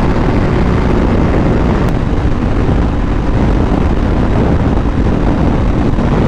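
Wind rushing over the helmet microphone with a motorcycle engine running steadily underneath while cruising on the highway.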